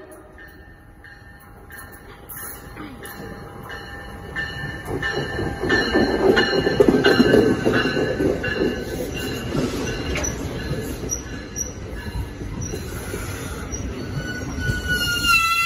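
NJ Transit bi-level commuter train coming into the station and rolling past along the platform. The rumble grows louder over the first six seconds, with repeated clicks of wheels over the rails, and a high squeal comes in near the end.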